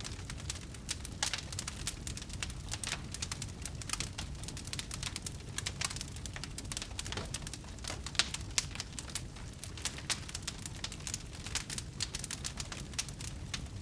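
Wood fire burning in a fireplace: many sharp crackles and pops, irregular and close together, over a low, steady rumble of flame.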